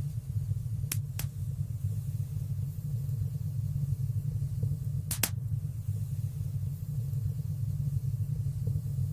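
Wood fire burning in a fireplace with a steady low rumble and sparse sharp crackling pops: two about a second in, a quick double pop about five seconds in, and another near the end.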